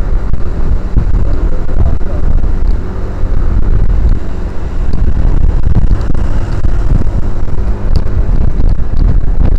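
Wind buffeting an action camera's microphone on a moving motorcycle, a loud, steady low rumble, with the motorcycle's engine running underneath.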